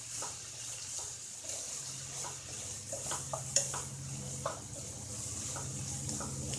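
Chicken and chopped vegetables sizzling in a pan, with a spatula scraping and knocking against the pan as they are stirred, several sharp taps among them. A low steady hum runs underneath.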